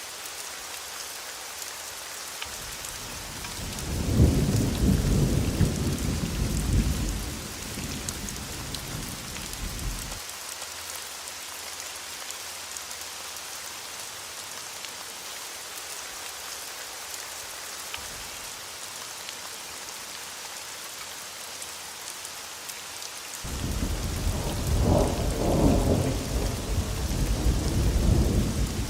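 Steady heavy rainfall hissing, with two rolls of thunder: one rumbles up a few seconds in and dies away by about ten seconds, and a second builds in the last few seconds and is still rumbling at the end.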